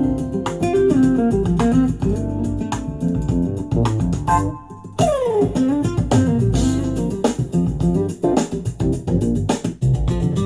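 Instrumental music with plucked guitar and bass guitar, played back through a portable Bluetooth speaker under test. About four and a half seconds in, the music briefly drops out, then comes back with a note sliding down in pitch.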